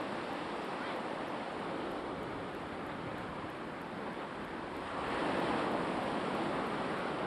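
Black Sea waves washing onto the shore, with one wave surging louder about five seconds in.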